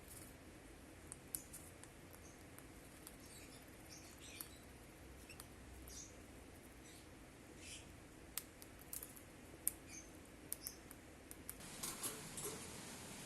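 A small bird's faint, short, high-pitched peeps, scattered among light clicks and taps, which come a little more often near the end.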